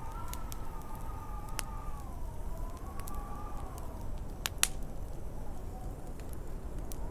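Wood fire crackling with scattered sharp pops, the loudest a little past halfway, over a low wind rumble. A howling wind whistle slowly rises and falls in pitch through most of it.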